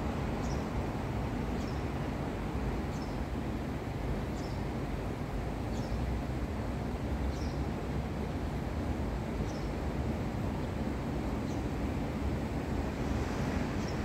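A bird's short high chirp repeated about every second or two, over a steady low outdoor rumble.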